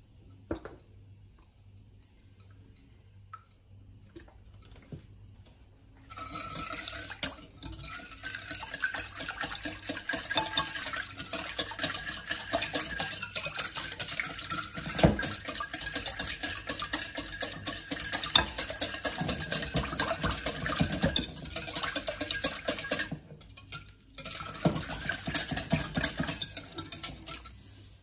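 A utensil stirring fast in a bowl, a dense run of rapid scraping and tapping strokes. It begins about six seconds in after a few faint clicks, stops briefly near the end, then resumes.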